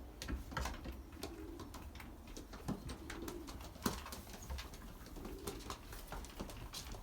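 Young racing pigeons cooing softly in a loft, low coos coming every second or two, with scattered sharp clicks and taps among them.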